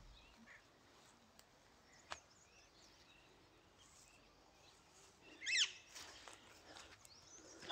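Faint outdoor ambience with small birds chirping here and there, and one louder bird call of a few quick sweeping notes about five and a half seconds in. A single sharp click comes about two seconds in.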